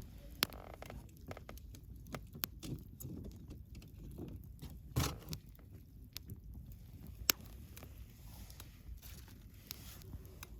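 Wood fire burning with a low steady rumble and irregular crackles and pops, a few sharper pops standing out about half a second, five and seven seconds in.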